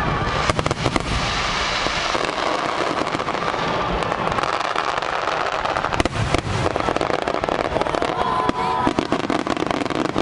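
Fireworks finale: a continuous barrage of aerial shells bursting, dense booming and crackling with sharp bangs on top, the loudest about half a second in and again about six seconds in.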